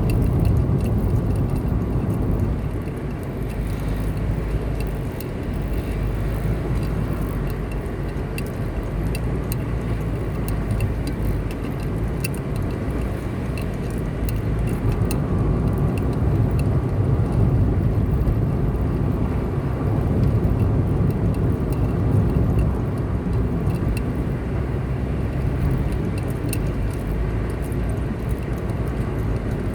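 Car driving along a road: a steady low rumble of engine and tyres on the pavement, with scattered faint light ticks throughout.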